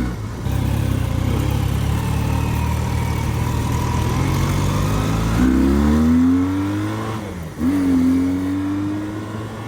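Honda CB400N parallel-twin motorcycle engine accelerating. It runs steady at first, then the revs climb, dip at a gear change, and climb again.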